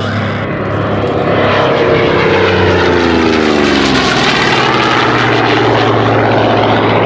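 Goodyear FG-1D Corsair's Pratt & Whitney R-2800 radial engine and propeller in a low flypast. The engine note falls in pitch as the aircraft goes by, about two to four seconds in, and a loud steady drone follows.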